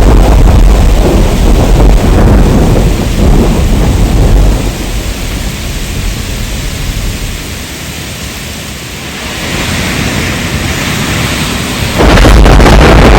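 Thunderstorm: heavy rain with a long rolling rumble of thunder that eases after about four seconds, leaving mostly the hiss of rain. Near the end the loud rumble comes back suddenly.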